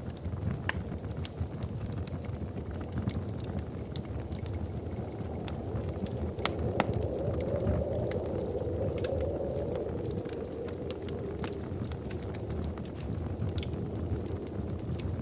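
Wood fire crackling in a fireplace: frequent sharp pops and snaps over a low, steady rumble of the flames, which swells softly for a few seconds in the middle.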